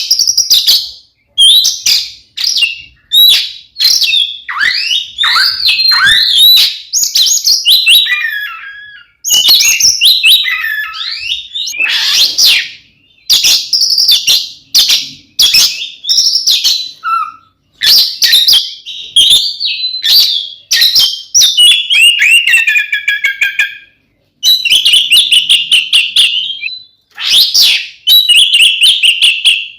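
Oriental magpie-robin (kacer) singing a loud, varied song of whistles, sliding notes and fast trills in quick phrases with short breaks. It ends with runs of rapidly repeated notes. This is the full, combative 'ngeplong tarung' song of a bird in fighting mood.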